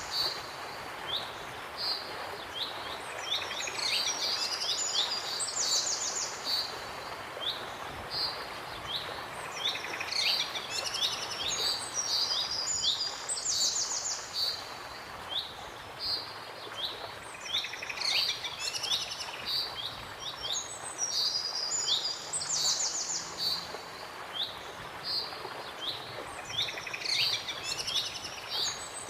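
Birds chirping and singing: short falling chirps and quick trills repeat every few seconds over a steady background hiss.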